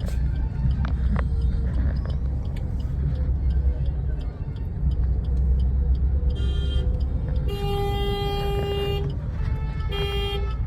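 Car's engine and road noise as a steady low rumble inside the cabin. A car horn sounds three times in the second half: a short toot, a long blast of about a second and a half, then another short toot.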